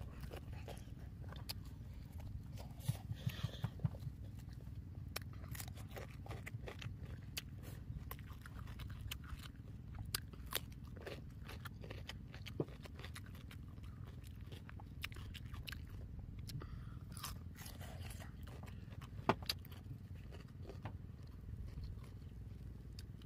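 A person chewing and biting food, with wet clicking mouth sounds: a quick run of clicks about three seconds in, then scattered clicks, over a low steady rumble.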